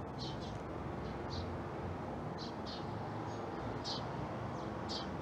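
Small birds chirping, short high notes repeated every half second or so, over a steady low rumble of background ambience.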